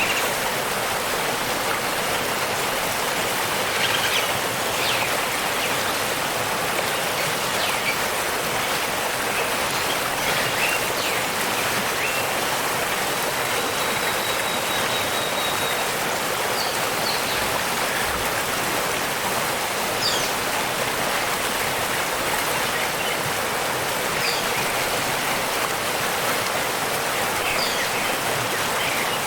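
Waterfall rushing steadily, with faint short bird chirps now and then over it.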